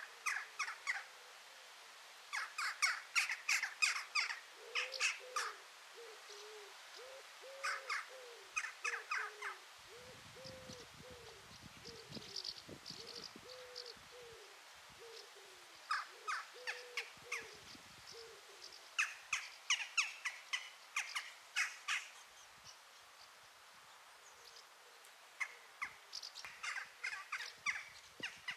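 Birds calling: several bursts of quick, rapid chirps, and through the middle a low call repeated many times over.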